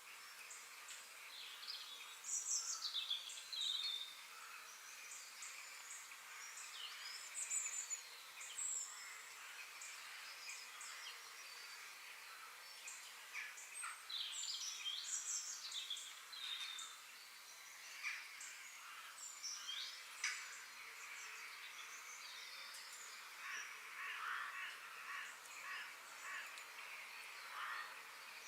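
Birds chirping and singing in short, scattered calls over a steady high background hiss.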